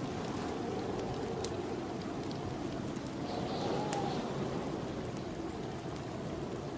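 Snowstorm wind blowing steadily, swelling into a brief whistling gust around the middle, with scattered small pops from a crackling fireplace fire.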